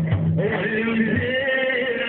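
Male voice chanting a religious praise poem (Iraqi mawlid madih) in a long, wavering sung line that begins about half a second in, after a few hand-drum beats at the start.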